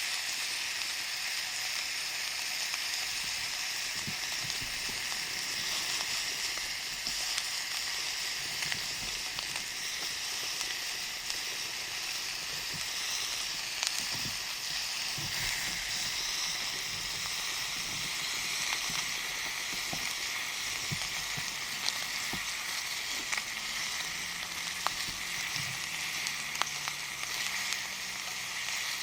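Pork chops frying in a cast-iron skillet: a steady sizzle with scattered sharp pops.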